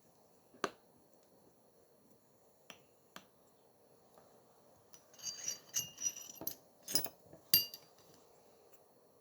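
Sharp clicks and light metallic clinks of small repair tools and parts handled on a hard work surface: three separate clicks in the first few seconds, then a quick cluster of clicks and clinks, the loudest about seven and a half seconds in.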